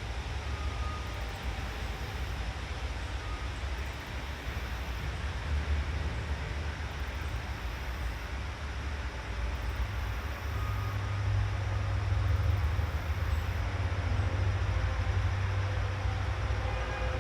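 Outdoor forest ambience: a steady low rumble under an even hiss, the rumble growing louder about ten seconds in, with a few faint, brief high chirps.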